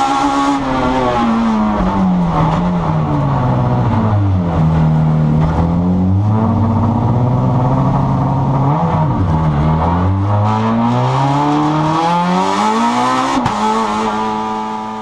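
In-car sound of a Citroën AX Maxi rally car's engine after the run: the revs fall over the first few seconds, then rise and fall several times as it slows down, over a steady rushing road and cabin noise.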